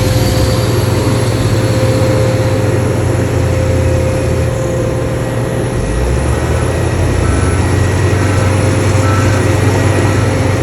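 Heavy diesel earthmoving machinery running steadily: a low engine drone under a constant whine.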